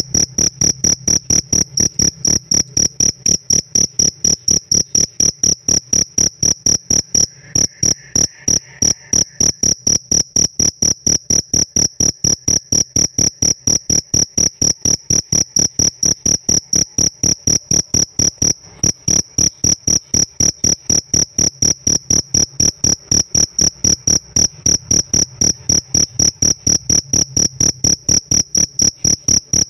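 Pet field cricket chirping close up: a loud, even train of high-pitched chirps, several a second, broken twice by a short pause.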